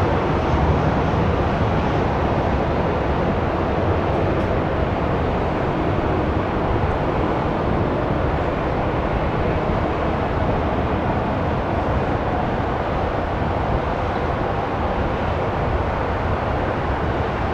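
Boeing 777-300ER jet airliner with its GE90 turbofan engines: a loud, steady roar with a deep rumble underneath, easing off a little over the seconds.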